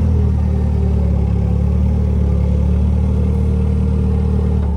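Nissan forklift engine running steadily under throttle, easing off right at the end.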